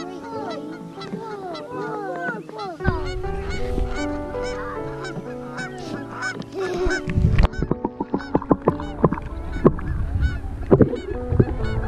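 A flock of geese honking, many short calls overlapping, over steady held notes of background music. From about halfway through, a run of loud sharp knocks takes over.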